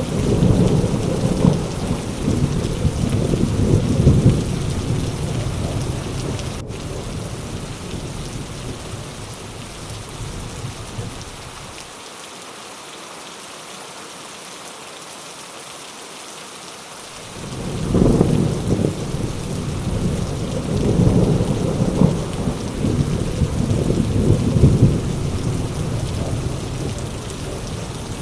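Heavy rain falling steadily, with thunder rolling in long low rumbles. The thunder fades out about ten seconds in, leaving only the rain, then rolls back in about two-thirds of the way through.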